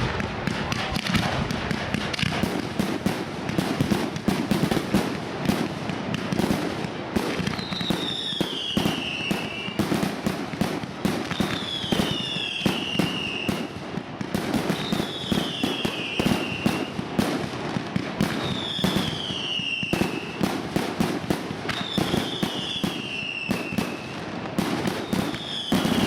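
Fireworks display finale: a dense barrage of overlapping shell bursts and crackling bangs. From about eight seconds in, a high falling whistle-like tone comes back about every three and a half seconds.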